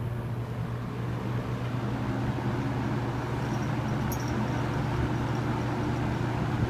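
Late-1970s Superlectric box fan running on its high speed setting: a steady rush of air over a low motor hum.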